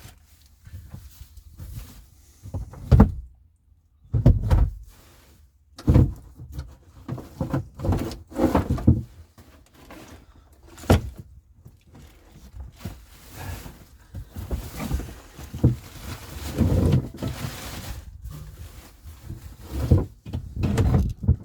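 Irregular knocks, thuds and scrapes of gear being moved and handled, a few sharp bumps standing out among the scuffling.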